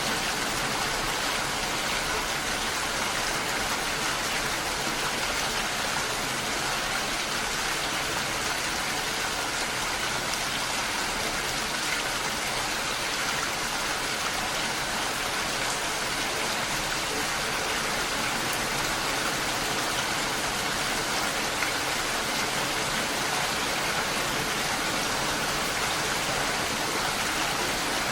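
Steady, even rain falling, a continuous hiss with no breaks or changes.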